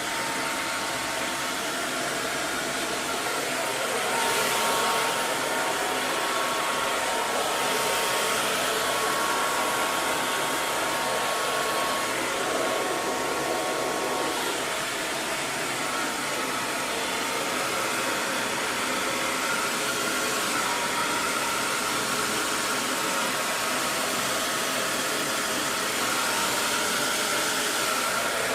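Electric hair dryer running continuously: a steady rush of air with a faint motor whine, unchanging in level.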